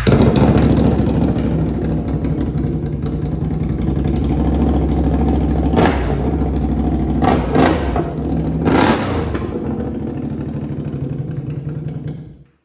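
A straight-piped Can-Am Outlander 850's V-twin engine running with no muffler, crazy loud. It is revved three times past the middle, then shut off shortly before the end.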